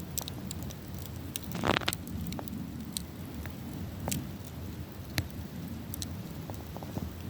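Wood campfire burning, with scattered sharp crackles and pops over a low steady rumble, and a brief louder hissing flare about two seconds in.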